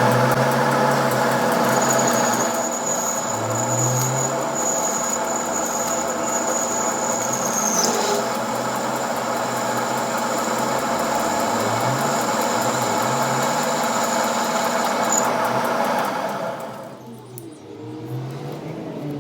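Workshop machine running steadily with a thin high whine over a busy mechanical hum, dropping away after about sixteen seconds.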